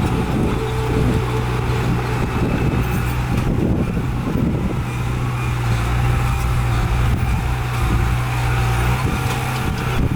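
Heavy diesel engine of earthmoving machinery running steadily with a constant low drone.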